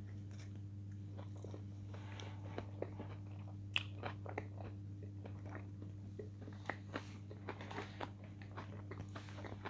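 A person chewing a mouthful of food close to the microphone: irregular small wet clicks and crunches throughout, over a steady low electrical hum.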